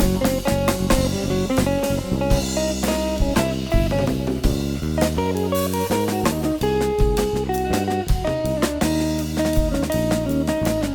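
Instrumental jazz-rock band playing: electric guitar over electric bass and a drum kit, with busy drumming and held melody notes.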